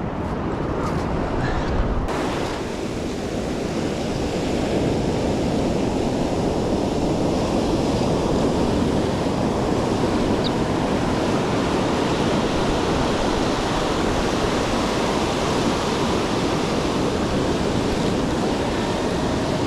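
Steady rush of ocean surf on the beach.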